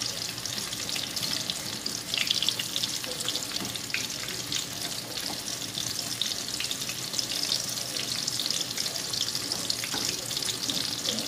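Breaded chicken cordon bleu frying in oil in a pan on low heat: a steady crackling sizzle.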